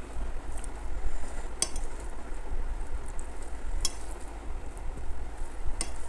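Eating sounds from a meal of rice and curries: steady chewing and mixing noise, with three sharp clicks spaced about two seconds apart.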